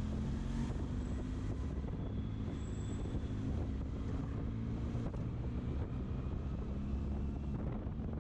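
Benelli motorcycle engine running steadily while riding, heard under wind buffeting a helmet-mounted microphone.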